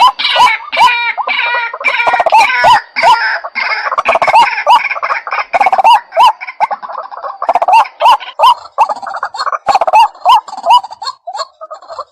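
White-breasted waterhen calling: a fast, unbroken series of short hooked notes, about three a second, with several call series overlapping.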